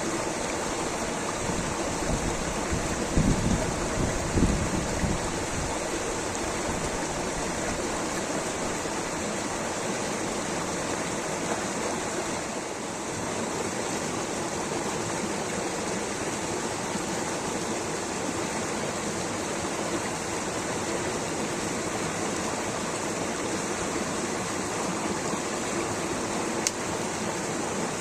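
Rushing water, a steady full hiss of a stream or small waterfall. A few brief low thumps break through about three to five seconds in, and a single faint click comes near the end.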